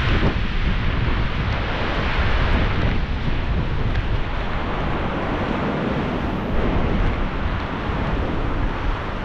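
Strong wind buffeting the microphone: a loud, steady rushing noise with a heavy low rumble that swells and eases in gusts.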